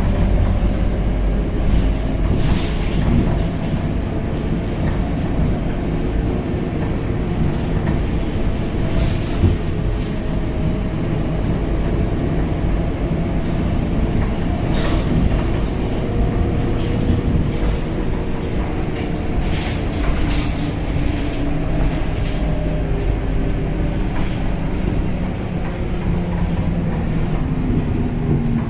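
Interior ride noise of a Scania K270UB city bus under way: a steady low engine and road rumble whose pitch drifts slowly up and down with speed, with a few short rattles and knocks from the body.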